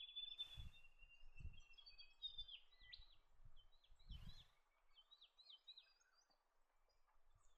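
Faint bird calls: a high trill at first, then a string of short chirps that each drop in pitch. Two brief rushes of noise come about half a second and about four seconds in.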